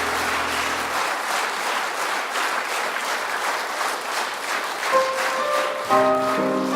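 Audience applauding, with the last held accompaniment chord dying away about a second in. About five seconds in, a piano starts the introduction to the next song over the tail of the applause.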